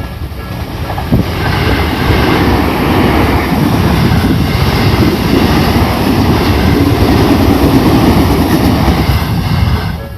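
A Tobu Tojo Line train passing close over the level crossing: a loud, steady rush and rumble of wheels on rails that builds about a second in and falls away just before the end. The crossing's Nikko-type electronic warning bell is heard faintly at first, then drowned out by the train.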